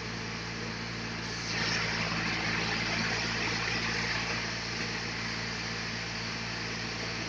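Sawmill saw running with a steady motor hum. From about one and a half seconds in until about four and a half seconds, a louder hiss rises over it as the blade cuts through a large log.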